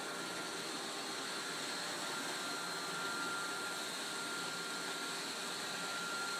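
iRobot Roomba 532 robot vacuum running: the steady whirring hiss of its vacuum motor and brushes, with a thin high whine held steady through it.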